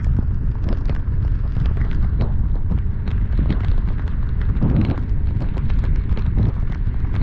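Heavy rain striking the car and camera in many irregular drops and splats, over a constant low rumble of driving and wind noise.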